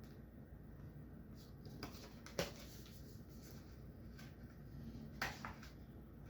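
Faint room tone with a few soft clicks and taps, the handling of a picture book's pages.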